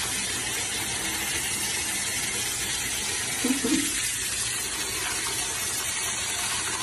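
Steady rushing hiss of spraying water, with a brief short pitched sound about three and a half seconds in.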